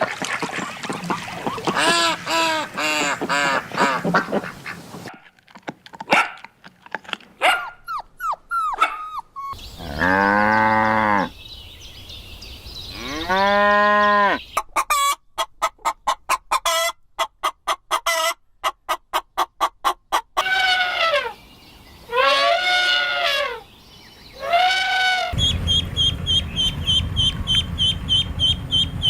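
A string of different farm animal calls cut one after another: pitched honking and bleating calls, a fast dry clicking rattle in the middle, then rapid high chirping over a low hum near the end.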